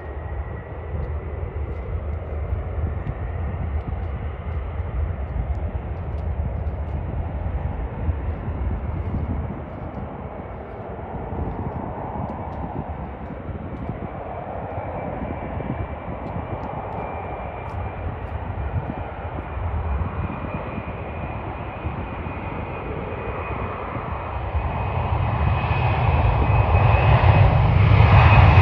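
Jet airliner's engines running: a steady high whine over a wide rumble, the whine's pitch creeping slightly upward, growing louder over the last few seconds as the aircraft comes closer.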